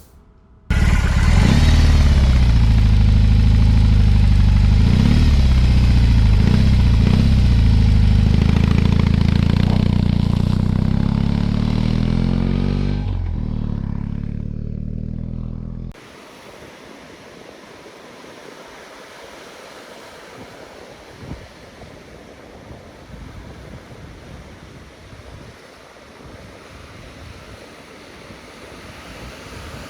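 Motorcycle engine running loud and deep, its pitch rising and falling a few times. About halfway through it cuts off abruptly to a much quieter steady rush of wind and surf.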